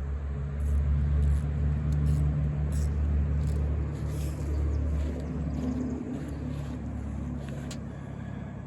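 Steady low engine drone of another motor vehicle running, slowly fading, with a few faint light clicks over it.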